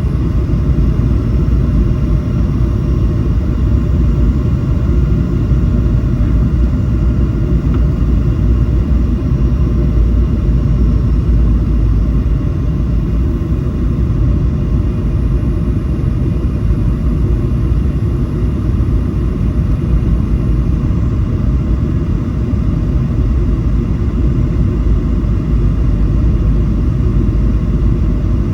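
Steady roar of a Boeing 737's jet engines and airflow heard inside the passenger cabin, with faint steady whines above the low rumble.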